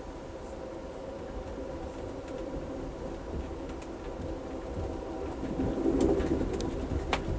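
Passenger car of the Amtrak Coast Starlight in motion: a steady rumble of wheels on rail with a low hum, growing louder about five seconds in, and a few sharp clicks at the very end.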